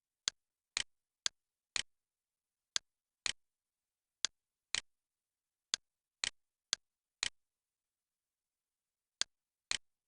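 Sharp clicks in pairs about half a second apart, seven pairs in all at uneven intervals, with the second click of each pair fading a little more slowly.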